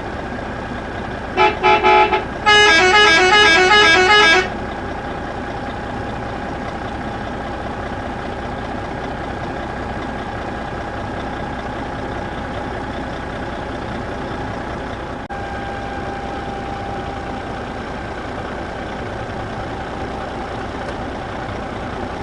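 Vehicle engine running steadily. About a second and a half in, a horn gives three short toots, then plays a quick tune of stepped toots for about two seconds.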